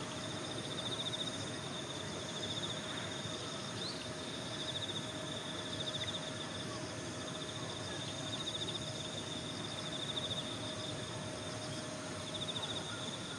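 Singing insects trilling in repeated high, pulsing runs of a second or two, over a steady background hiss with a faint steady hum beneath.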